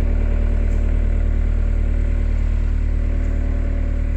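A motor vehicle's engine idling steadily with a low, even hum.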